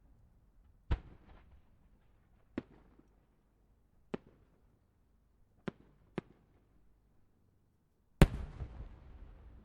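Aerial firework shells bursting: a string of single sharp bangs a second or two apart, then a much louder bang near the end that trails off in a rolling rumble and crackle.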